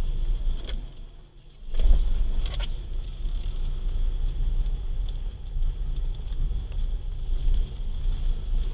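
Car driving in city traffic: a steady low road and engine rumble, which drops away briefly about a second in and then comes back.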